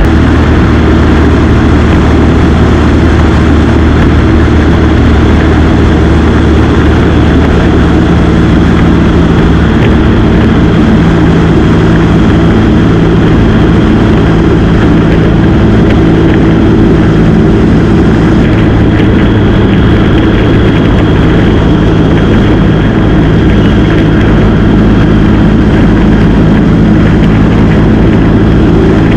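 Motorcycle engine running steadily at cruising speed, its pitch shifting only slightly, under a steady rush of wind and road noise.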